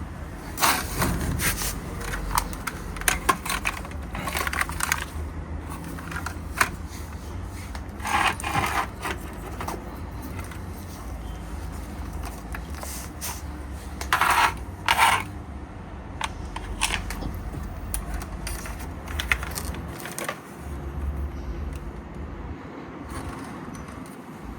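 Irregular metallic clinks, rattles and scrapes come in short clusters every second or two, over a steady low rumble.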